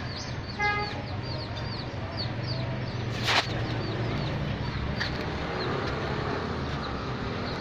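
Many small birds chirping continuously, with a short lower bird call near the start and one sharp knock about three seconds in.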